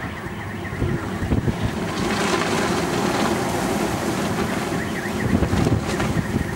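Blizzard wind gusting and buffeting the microphone: a rough, rumbling rush that swells about a second in and stays strong.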